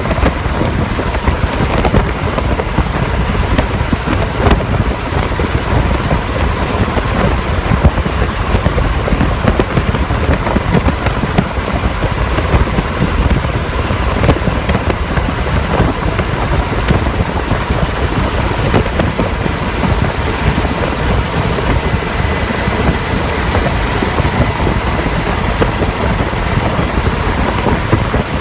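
Helicopter in flight heard from on board: loud, steady rotor and engine noise with a fast low chop and a faint steady whine.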